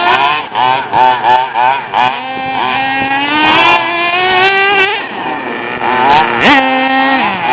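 Small two-stroke engine of a radio-controlled truck revving hard in quick blips, then holding a long run with the pitch climbing steadily, before a sharp rev and a drop near the end.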